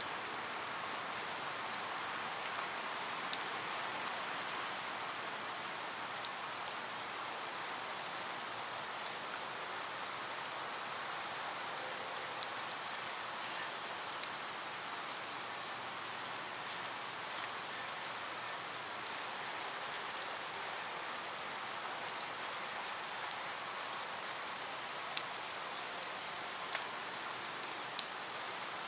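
Steady rain, a continuous hiss with scattered sharp drop ticks on a surface.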